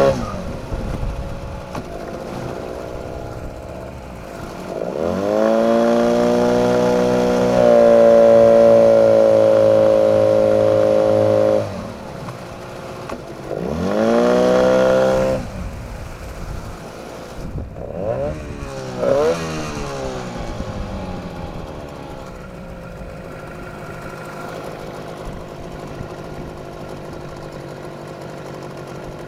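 Small 9.8 motor revved up and let back down several times: two longer held revs, then a few short blips, settling back to a steady lower running. A pitched whistling whine rises and falls with the revs, which the owner takes for a brake whistle and cannot explain.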